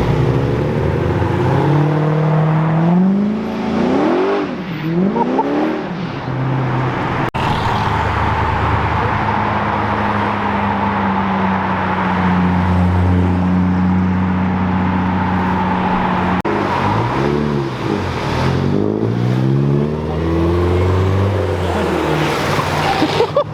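Car engines revving hard as cars accelerate away, the pitch climbing and dropping between gear changes about two to six seconds in and again late on, with a steadier held engine note in between.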